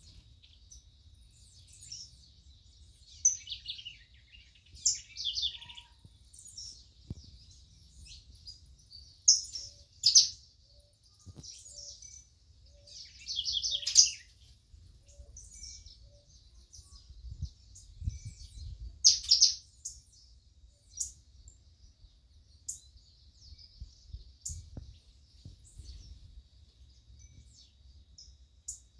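Birds chirping and singing, a string of short separate calls and trills, the loudest clusters about ten, fourteen and nineteen seconds in, over a faint low rumble.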